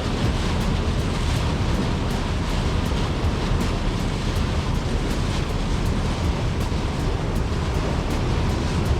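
Steady rush of wind and water aboard a boat under way, with a heavy low rumble.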